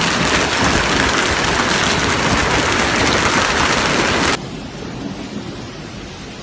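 Loud, steady rushing noise that drops abruptly to a quieter rush about four seconds in.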